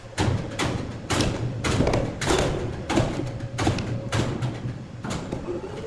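Repeated knocks and thuds, irregular at about one or two a second, over a steady low hum of sawmill machinery.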